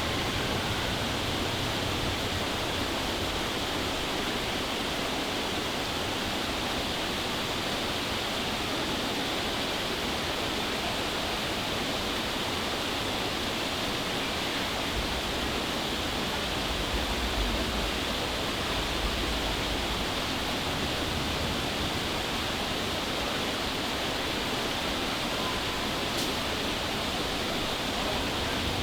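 Steady rushing noise of falling water, with a low rumble swelling briefly a little past halfway.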